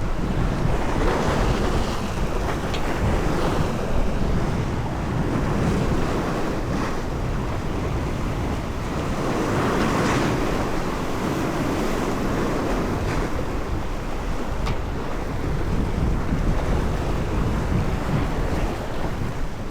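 Wind buffeting the microphone over the rush of sea waves: a steady roar heavy in the low end that swells now and then, louder around ten seconds in.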